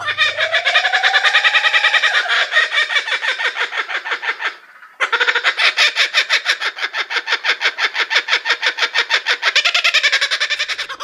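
A bird calling in a fast, continuous run of short repeated notes, about eight a second, with a brief pause about halfway through.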